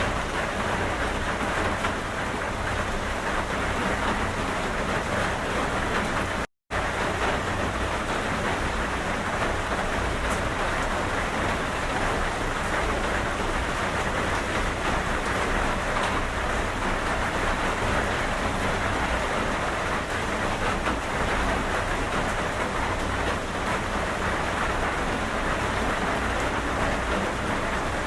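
Steady rainfall, an even hiss of rain on a surface. It cuts out completely for a moment about six and a half seconds in, then carries on unchanged.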